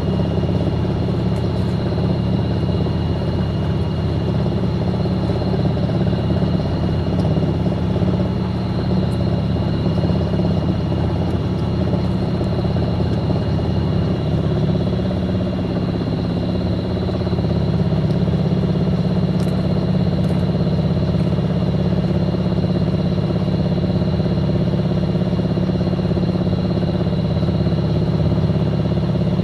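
Fisher & Paykel MW059 washing machine running, a steady low hum with a thin high-pitched whine over it and no change in pace.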